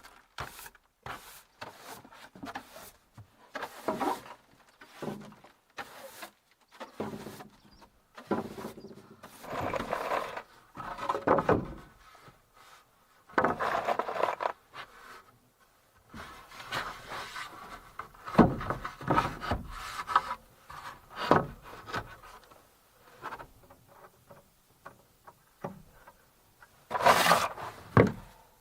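Wood being handled and worked: irregular scraping and rubbing with sharp knocks in between, the loudest knocks about two-thirds of the way through and near the end.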